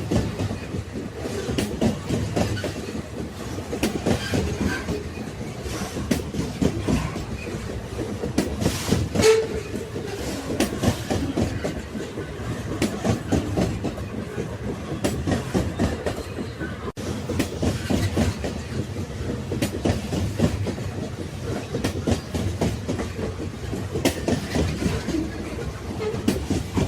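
Railway wagons rolling along the track: a continuous rumble with wheels clacking over the rail joints, the loudest jolt about nine seconds in.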